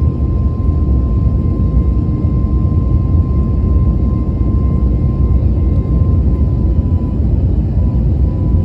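Airbus A321neo's jet engines and airflow heard from inside the cabin during the climb after takeoff: a loud, steady low rumble. A faint steady whine runs above it and steps slightly lower in pitch about six seconds in.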